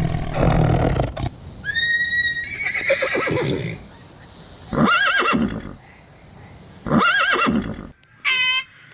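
Horse whinnying: a long wavering whinny that falls in pitch, followed by two shorter neighs about two seconds apart. A loud low rumble fills the first second, and a different short bright call cuts in near the end.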